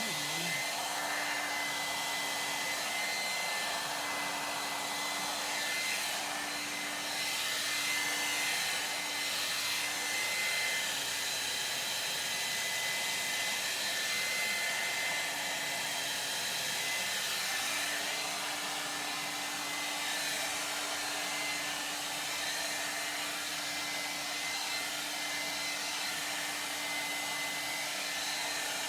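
Ionic hair dryer running steadily: a continuous rush of blown air with a steady high whine from its motor.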